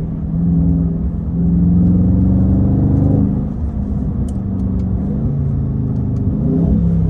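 Dodge Scat Pack Widebody's 6.4-litre 392 Hemi V8 driving under throttle. It gets louder and climbs in pitch about a second and a half in, eases off just after three seconds, then runs on steadily at a lower pitch.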